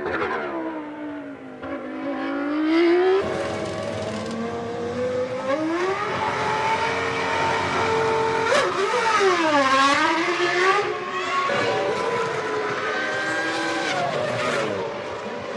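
Formula One car engines at high revs, several overlapping, their pitch climbing through the gears and dropping sharply on downshifts, the sharpest drop about nine seconds in.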